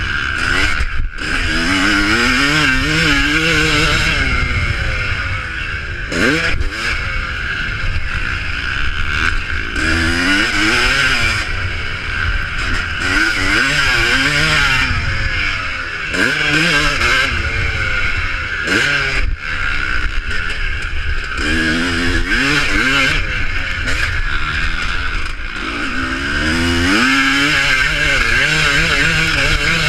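Motocross bikes racing, their engines revving up and falling back again and again as riders accelerate and shift, several bikes heard at once.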